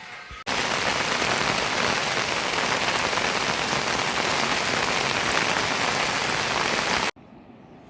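Heavy rain falling in a steady, dense hiss. It starts abruptly about half a second in and cuts off just as suddenly about a second before the end.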